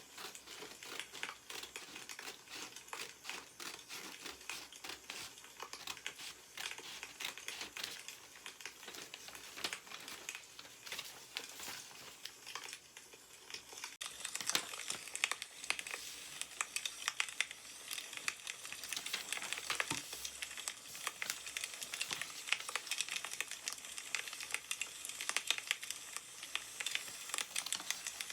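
Newspaper paper rustling and crinkling as it is handled, over crackling burning firewood; the rustling gets busier and louder about halfway through.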